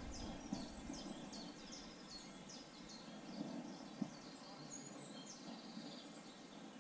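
A songbird singing a quick string of short high chirps, then a few higher notes, over a faint steady background hum. A single small click about four seconds in.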